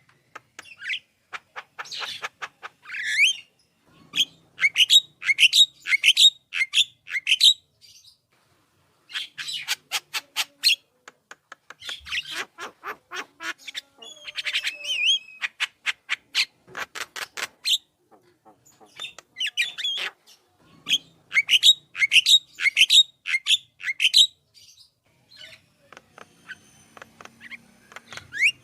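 Javan myna (jalak kebo) singing in phrases of rapid short notes mixed with brief sliding whistles, one phrase after another with short pauses between.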